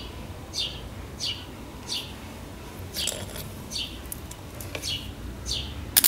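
A bird repeats a short, falling chirp about every two-thirds of a second. Right at the end a loud crackling burst begins: the homemade transformer welder's electrode striking an arc on the twisted copper wire ends.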